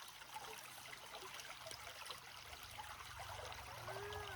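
Faint steady hiss like trickling water, with a short rising-and-falling call near the end.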